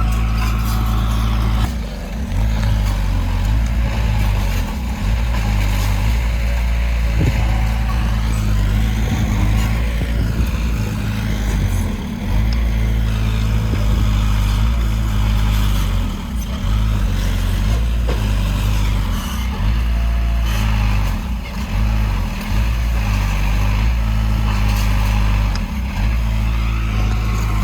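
Heavy diesel earthmoving machinery running: a deep, steady engine drone that dips briefly every few seconds.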